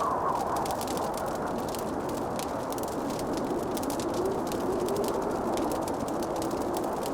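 Wood fire crackling, with many small irregular pops and snaps over a steady rushing background that carries a faint, slowly wavering low whistle.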